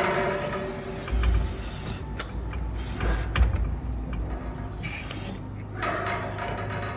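Aerosol can of blue spray hissing in several short bursts as it is sprayed onto a ram's head, with a few low thuds of handling in between.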